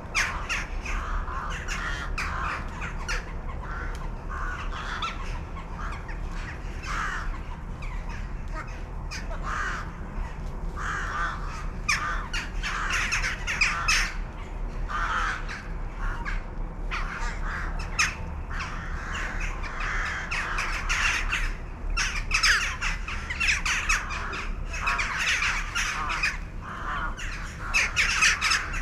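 A flock of birds calling without a break, many short calls overlapping one another.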